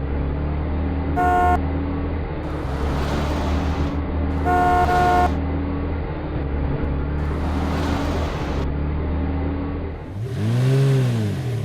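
Cartoon-style vehicle sound effects: an engine running steadily with two horn toots, about a second in and about four and a half seconds in, and several whooshing swells, the last with a pitch that rises and falls near the end.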